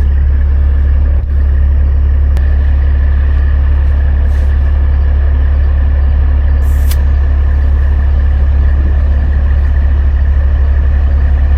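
Heavy diesel truck engine idling steadily, a strong low hum, with a short hiss of air about seven seconds in.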